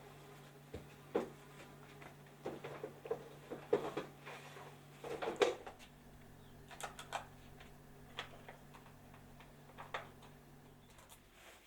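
Irregular light clicks and knocks, a few each second in clusters, over a steady low hum that stops near the end.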